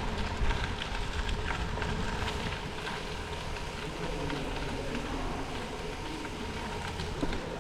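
Bicycle riding along the trail: tyres rolling and crackling over the loose trail surface, with a low rumble of wind on the microphone, echoing in a tunnel.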